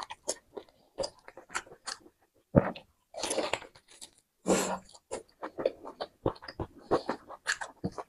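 Close-miked mouth sounds of eating a roast duck leg: wet chewing and biting with smacks and clicks, coming in irregular bursts.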